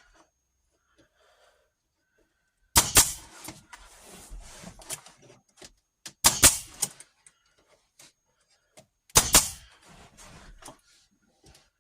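A staple gun firing three times, about three seconds apart, driving staples through drywall into a 2x4, with fainter handling noise after each shot.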